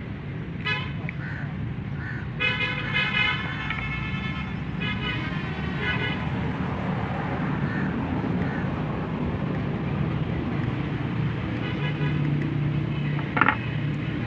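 A steady low engine hum with several short horn toots, the clearest about two and a half seconds in and a brief one near the end.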